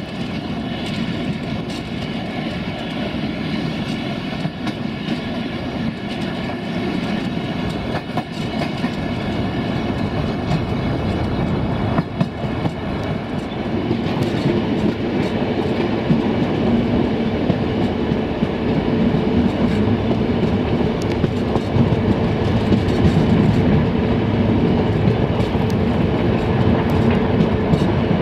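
Passenger train rolling along the track, a steady rumble of wheels on rail with occasional clicks over the joints, getting louder over the second half.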